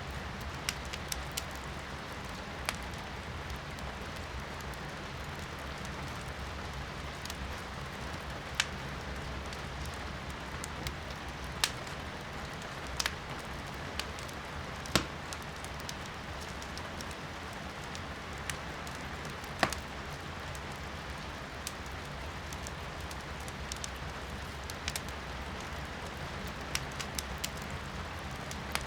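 Firewood burning in a fireplace, crackling with irregular sharp pops, over the steady hiss of rain heard from indoors.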